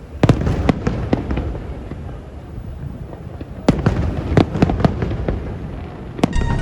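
Fireworks display: aerial shells bursting in rapid sharp bangs, a cluster near the start and another about halfway through, over a continuous low rumble.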